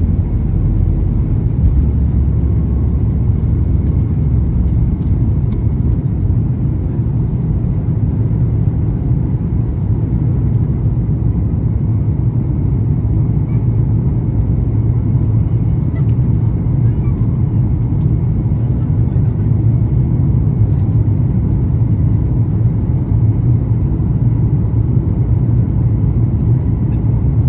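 Boeing 737 MAX 8's CFM LEAP-1B jet engines and airflow giving a steady, deep rumble, with faint steady tones above it.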